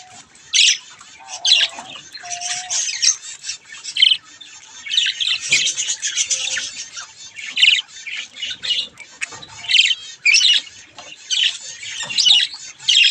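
Budgerigars chirping and chattering: a steady run of short, high calls and squawks.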